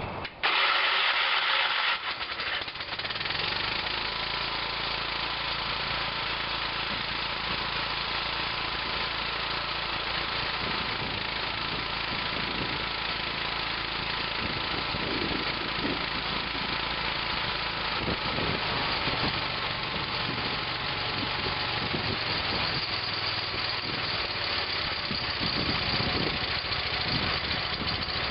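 John Deere 212 garden tractor's 12 hp Kohler single-cylinder engine cold-starting. It catches about two to three seconds in after a brief harsh spell, then runs steadily and fairly quietly.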